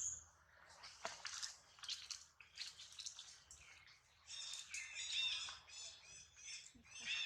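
Scattered soft clicks and rustling, then, from about four seconds in, a rapid run of short, high-pitched chirping animal calls.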